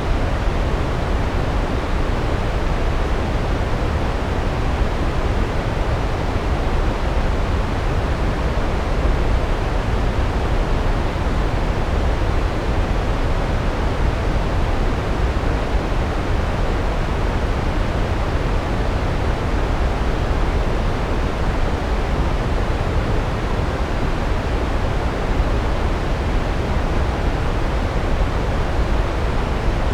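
Large waterfall, a steady deep rush of falling water with the most weight in the low end and no change.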